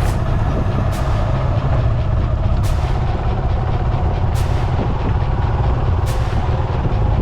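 Motorcycle engine running steadily under way, with a heavy low rumble of wind on the helmet-cam microphone. A short hiss recurs about every second and a half to two seconds.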